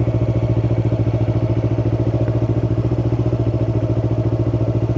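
Yamaha R3's parallel-twin engine running at steady, unchanging revs with an even pulsing beat, heard from the rider's helmet mic. It is held in first gear without shifting, which the new rider worries is straining the engine.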